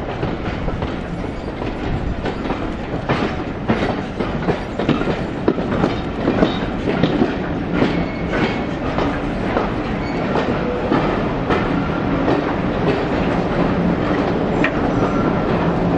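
A passenger train's wheels on the track, heard from on board as it moves slowly. The wheels click and clatter irregularly over rail joints and pointwork over a steady running rumble, with a few short high squeaks.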